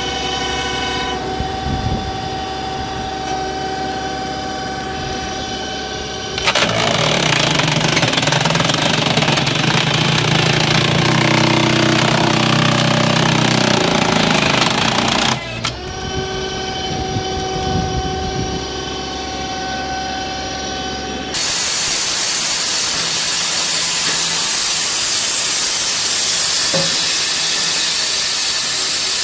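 Heavy wood-processing machinery running, in stretches that change abruptly: a steady engine drone with a whine, a louder, rougher stretch, the drone again, then a steady hiss for the last third.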